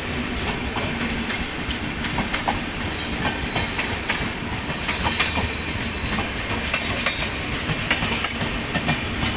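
Express train's coaches running over rail joints and points, a steady rumble with many irregular wheel clicks. A short high wheel squeal comes about five seconds in.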